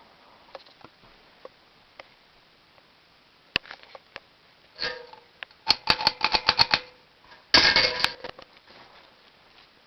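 A series of sharp clicks and rattles, a quick run of about ten near the middle and a loud burst a little later, with a faint metallic ring. The sound fits the ceiling fan's metal pull chains being handled and knocking against the fan's housing.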